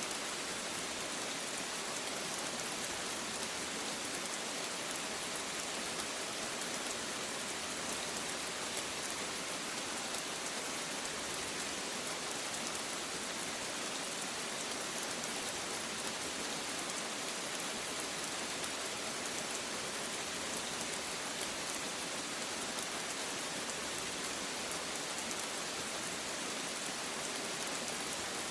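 Steady, even rain falling and pattering on a surface, with fine drop ticks and no thunder.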